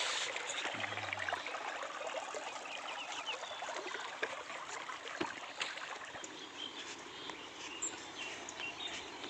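Steady rushing of river water flowing over rocks at a small waterfall, with a few faint bird chirps about three seconds in.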